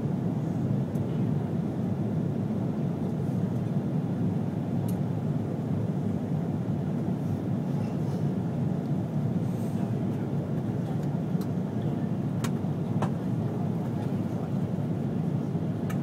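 Steady low rumble inside the cabin of an Airbus A330-300 airliner in flight: engine and airflow noise. A couple of faint ticks come about twelve seconds in.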